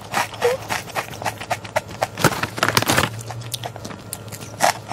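Close-miked chewing of a crisp chip: quick, irregular crunches that crowd together about halfway through, then a fresh crunchy bite near the end.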